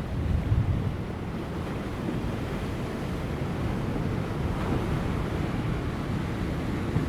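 Ocean waves breaking and washing over offshore rocks in a continuous surging roar, with wind buffeting the microphone in low rumbles during the first second.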